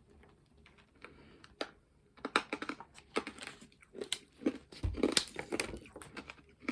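Irregular clicks and crunches of a person chewing a Warheads Extreme Sour hard candy close to the microphone, with a low thud about five seconds in.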